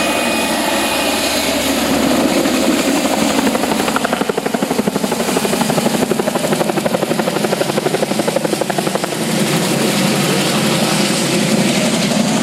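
Helicopter rotor running close by during a logging lift, a steady fast chopping of the blades that pulses more strongly for several seconds in the middle.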